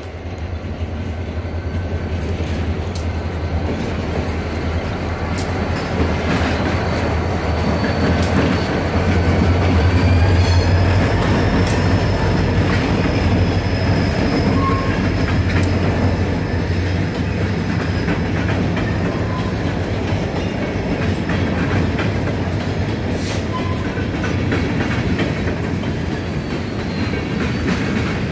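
Freight train led by a Norfolk Southern diesel locomotive passing close by: a steady low engine drone that grows louder over the first ten seconds or so, then covered hopper cars rolling past with wheels clicking over rail joints and a thin, high wheel squeal.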